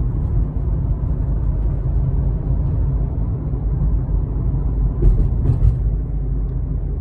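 Steady low rumble of road and engine noise inside a moving car, with two brief clicks about five seconds in.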